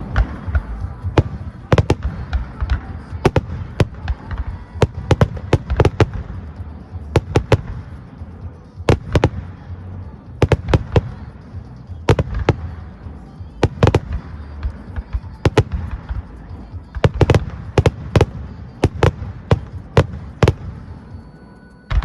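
Aerial fireworks shells bursting in a rapid barrage: many sharp bangs, often several close together, over a continuous low rumble of booms.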